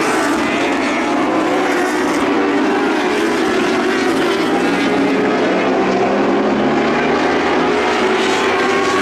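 Several lightning sprint car engines running hard together in a dirt-track race, a steady loud drone of overlapping engine notes whose pitches waver as the cars circle.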